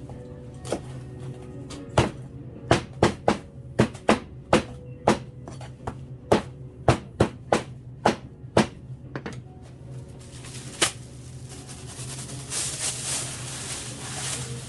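A run of about twenty sharp, irregularly spaced knocks over background music with a steady low hum, then a hissing noise building up for the last few seconds.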